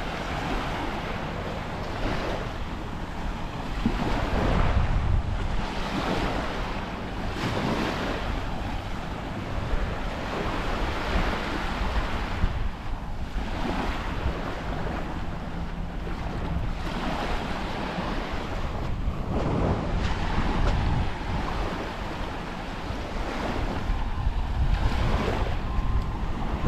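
Sea waves breaking and washing up a beach, swelling every few seconds, with wind rumbling on the microphone.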